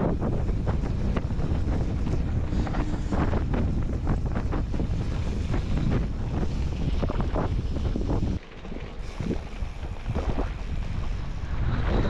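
Wind buffeting the microphone: a heavy low rumble with gusts. It eases a little past eight seconds in and picks up again near the end.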